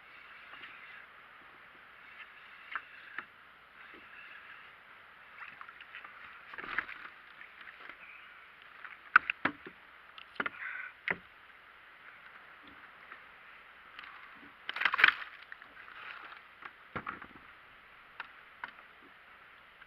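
A kayak on the ocean: water sloshing and splashing against the hull, with a steady wash and scattered sharp knocks, the loudest cluster about fifteen seconds in.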